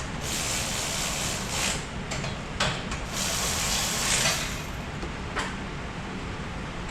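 Scraping and rubbing noises in two long stretches, with a few sharp clicks or knocks in between, from hands-on mechanical work.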